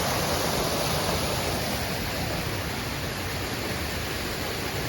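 Steady rush of water pouring out of a man-made fountain outlet, easing slightly.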